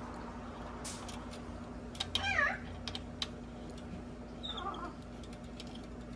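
A cat meows, loudly once about two seconds in and more faintly a couple of seconds later, over scattered light clicks and a steady hum.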